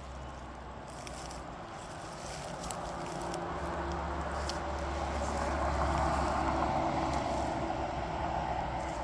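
A car driving past, its tyre and engine noise growing louder to a peak about six seconds in, then fading.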